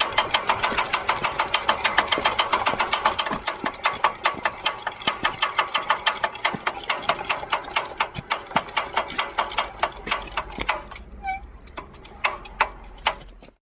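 Rear wheel of a Piaggio Ciao moped clicking rapidly and regularly, about four clicks a second, the clicks spacing out and thinning near the end. The cause of the click is unknown.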